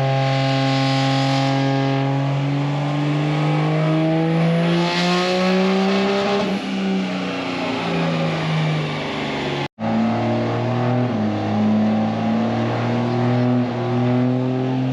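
Vehicle engines running and revving, the pitch climbing and falling, with two short rushing surges. The sound drops out for a moment about ten seconds in, then the engine sound resumes.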